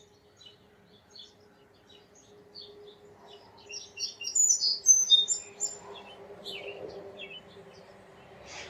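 Small songbirds chirping and twittering in quick short notes, busiest and loudest about four to five and a half seconds in, over a faint steady hum.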